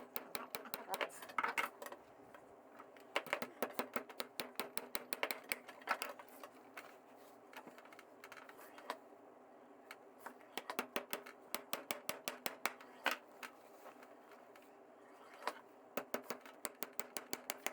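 Runs of light, quick hammer taps, several a second, as small nails are tapped into a leather cowboy boot, with short pauses between the runs.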